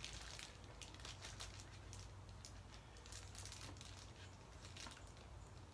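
Faint rustling and scattered small clicks of bike packaging being handled, over a low steady hum.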